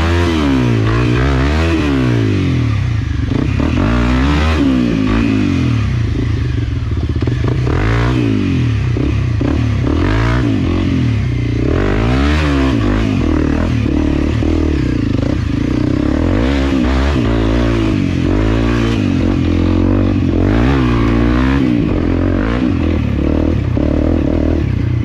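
Enduro dirt bike engine revving up and down over and over, with the pitch climbing and dropping every second or two, as the bike is ridden along a trail.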